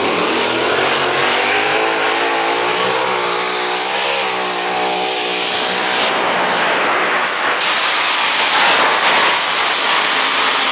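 A pulling tractor's engine running flat out under load. Its pitch climbs over the first couple of seconds and wavers midway, then gives way to a loud, dense rush of noise.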